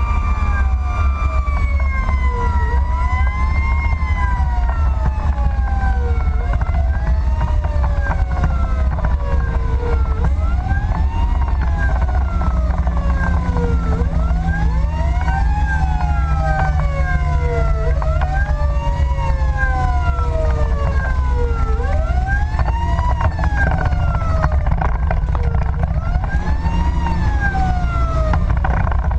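Fire engine running with its sirens on: one siren rises and falls about every two seconds while a second siren tone slides slowly down and back up, over the steady low rumble of the truck's engine and road noise.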